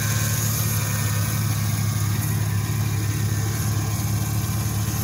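Chevrolet Camaro's 6.2-litre V8 idling steadily, heard at the open engine bay by the intake. The owner says a piece of plastic is inside the engine.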